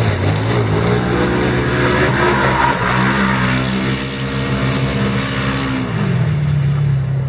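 Quad bike engine running under throttle, its pitch rising shortly in, holding steady, then falling about six seconds in as the rider eases off.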